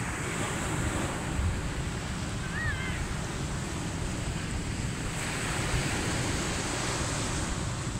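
Ocean waves breaking and washing up the beach, swelling about a second in and again around five seconds in, with wind buffeting the microphone.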